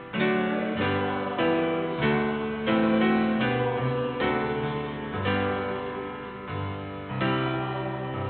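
Slow instrumental offertory music on piano, with a new chord struck roughly every second.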